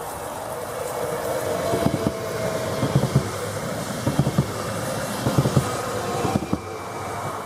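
Stadler FLIRT passenger train passing at speed: a steady rushing noise, with its wheels knocking in quick pairs over the rail joints about once a second, and a faint whine above.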